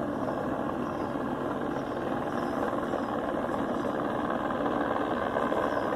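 A steady engine running, an even drone with no change in pitch.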